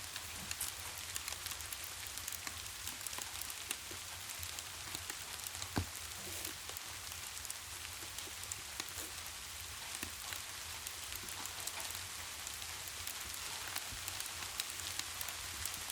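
Steady rain falling, with a low rumble beneath and a fireplace crackling in scattered small ticks, one louder pop about six seconds in.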